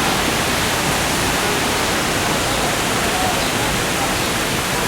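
Steady rushing of falling water, an even, unbroken hiss.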